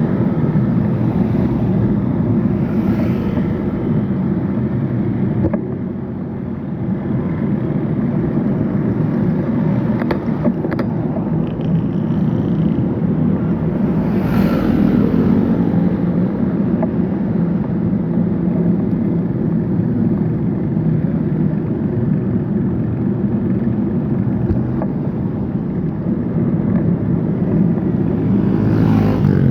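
Steady rumble of road traffic and wind heard from a moving bicycle, with louder swells about 3, 14 and 29 seconds in.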